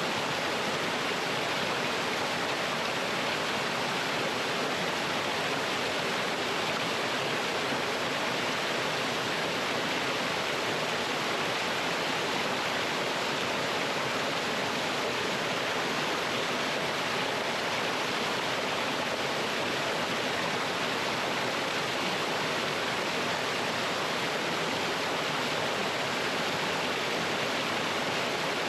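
Mountain stream pouring over rocks in a small waterfall: a steady, unbroken rush of water.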